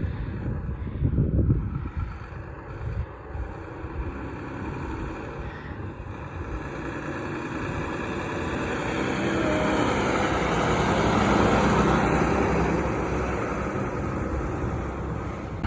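Semi truck driving past: engine and tyre noise swells to its loudest about two-thirds of the way through, then eases off. Wind gusts on the microphone in the first few seconds.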